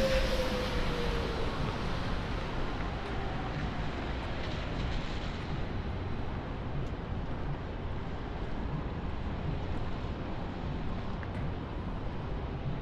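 Traffic on a wet city street: a vehicle passes with a falling whine over the first second or so, then a steady hiss of tyres and street noise.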